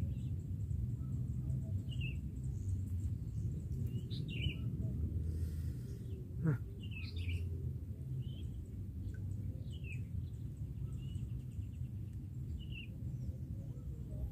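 Small birds chirping in short calls every second or two over a steady low background rumble, with a single brief knock about six and a half seconds in.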